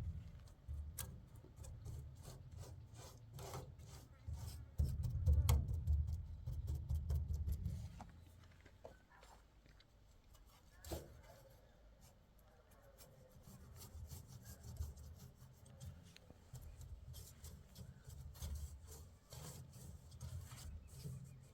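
Rubbing and scraping with scattered sharp clicks, louder in uneven stretches and quieter in the middle.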